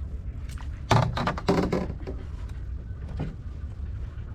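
A quick cluster of sharp knocks and thuds about a second in, with another small knock near the end, from handling gear and a caught bluegill in a canoe, over a low steady rumble.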